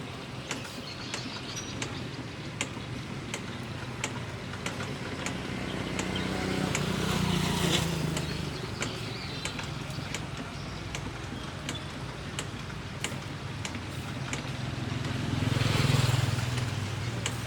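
Outdoor street noise with vehicles passing: two engines swell up and die away, one about halfway through and one near the end. Short sharp clicks and taps come and go throughout.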